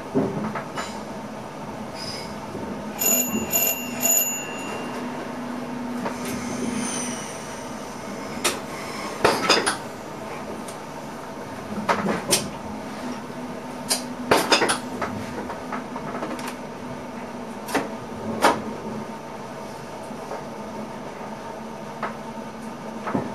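Inside the driver's cab of an NS ICM intercity train running at speed, with a steady hum of traction equipment and motors. Wheels knock sharply over rail joints or points, mostly in pairs a fraction of a second apart. A short high chime rings a few times about three seconds in.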